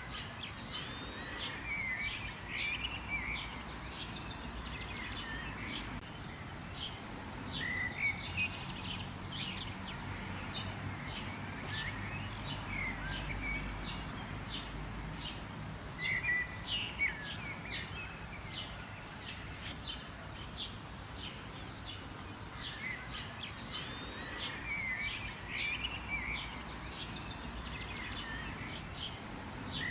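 Several birds chirping and calling together: a dense run of short high chirps with a few swooping notes, over a low steady background rumble.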